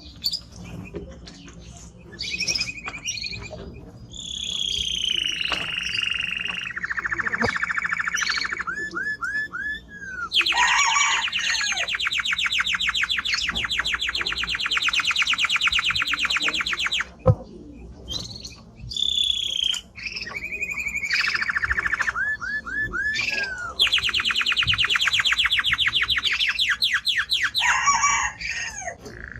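Male canary singing a long song of varied phrases, including fast rattling trills held for several seconds, twice, with a short pause between the song bouts.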